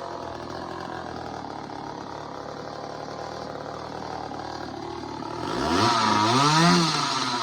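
Early-1970s Craftsman 2.3 two-stroke chainsaw, Poulan-built, idling steadily, then revved up once about five and a half seconds in and dropping back to idle.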